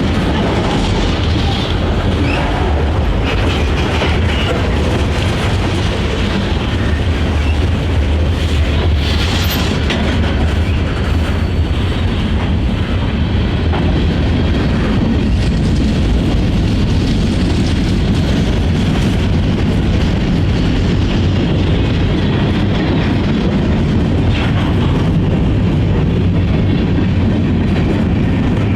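Freight train rolling past with a steady low rumble, its wheels clicking over the rail joints.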